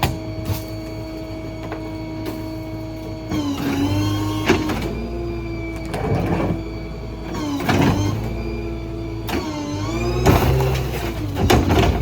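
Hydraulic packer of a Ford F-550 New Way Diamondback rear-load garbage truck cycling: a steady whine that drops in pitch about three seconds in and then wavers up and down under load, with sharp cracks and snaps of dumped debris being crushed every few seconds.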